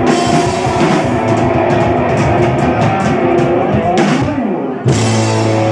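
Rock band playing live, with drum kit, cymbal hits and distorted electric guitar, building to a held final chord about five seconds in.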